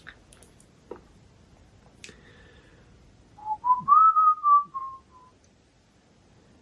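A person whistling a short phrase of a few notes, stepping up in pitch and then settling a little lower. It starts about three and a half seconds in and lasts under two seconds. It is preceded by a couple of small clicks.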